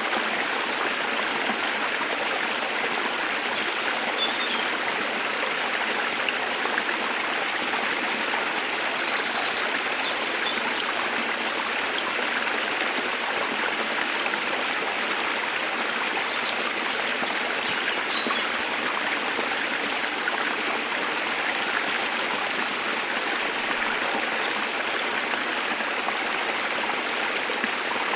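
Waterfall rushing steadily, with faint bird chirps a few times over it.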